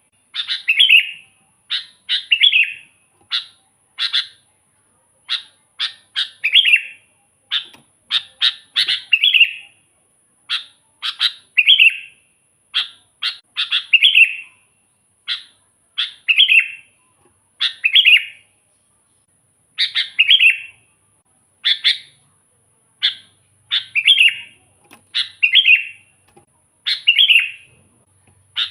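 Sooty-headed bulbul (kutilang) singing over and over: short phrases of a few quick notes, one every second or two, with silence between them.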